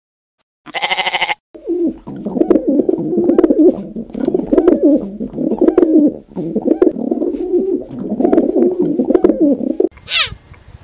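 A sheep bleats once about a second in. Rock pigeons then coo in a low, repeated run through most of the rest, and a brief high chirp comes near the end.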